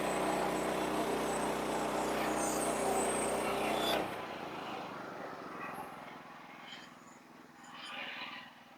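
Engine running steadily at a constant speed, then cutting off suddenly about four seconds in, followed by a few faint knocks.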